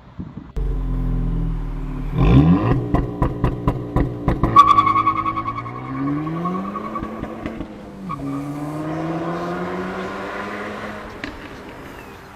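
Honda Civic Type R FN2's 2.0-litre four-cylinder exhaust. The engine idles, then revs sharply with a quick series of cracks at about two seconds in. It then pulls away, its pitch rising, drops at about eight seconds in as the car shifts up, and rises again as the sound fades.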